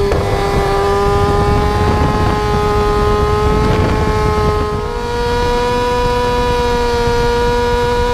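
Small motorcycle engine held at high revs during a wheelie, a steady high-pitched running tone over a rough rumble, shifting slightly higher about five seconds in.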